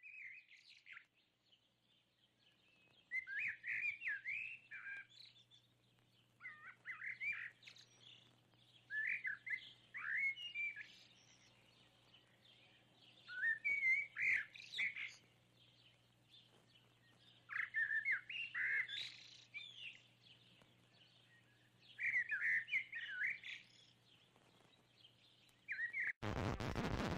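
Bird song: short warbled phrases repeating every three to four seconds over a low steady hum. Near the end a loud rushing noise cuts in for about a second.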